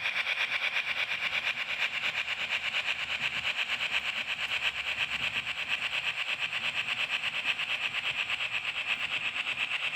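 Model train running on a layout's track, with a rapid, even ticking rhythm over a steady high-pitched hiss.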